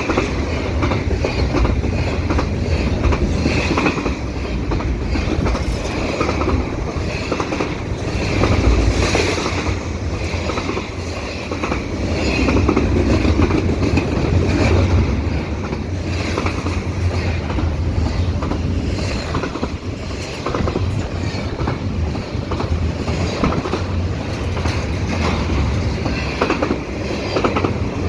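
Fast double-stack intermodal freight cars passing close, with a steady heavy rumble and rapid, irregular wheel clicks over the rail joints.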